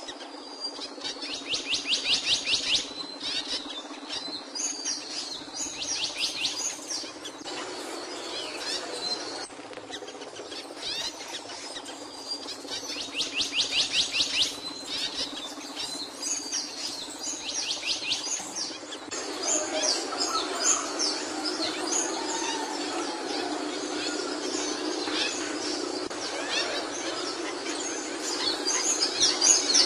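Capuchino songbird singing: bursts of very rapid, high trilled notes, each lasting a second or two, repeated several times among varied chirps and twitters.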